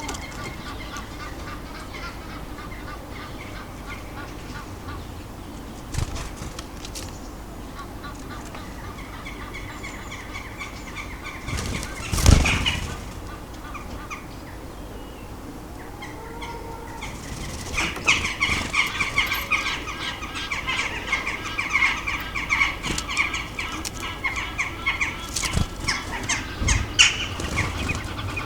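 Garden birds at a feeder: a short, loud flurry of wingbeats about twelve seconds in, then busy bird calls and song over the last ten seconds.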